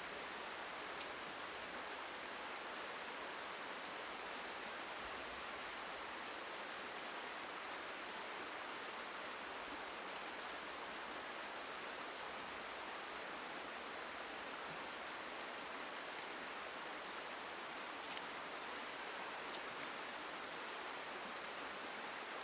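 Steady rushing of a flowing river, with a few faint sharp clicks.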